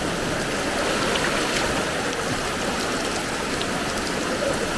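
Steady rush of strong-flowing floodwater, with rain falling.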